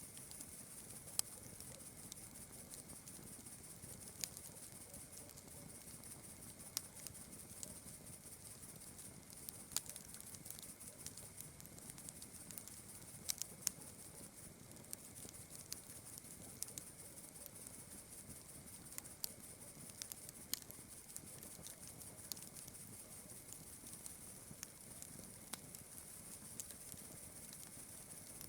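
A campfire crackling faintly, with scattered sharp pops at irregular intervals, over a steady high chirring of night insects such as crickets.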